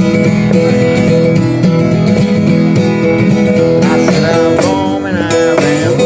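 Acoustic guitar strummed in a country-blues style, with a melody line that bends in pitch about four to five seconds in.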